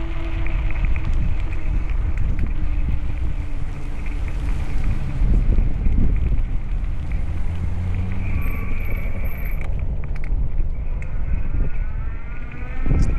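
Wind buffeting the microphone on a moving bicycle: a loud, steady rumble with a gusting level, and a faint high whine in the second half.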